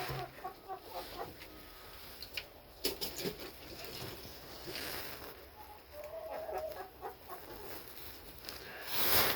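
Chickens clucking, with scattered short calls and a few brief knocks.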